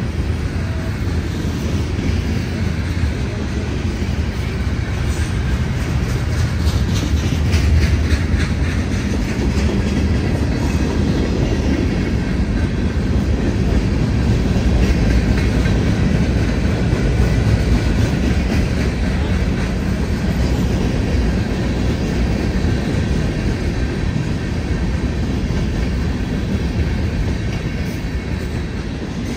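Norfolk Southern freight train rolling past: a steady low rumble of wagons on the rails, with wheels clicking over rail joints, most clearly about five to eleven seconds in.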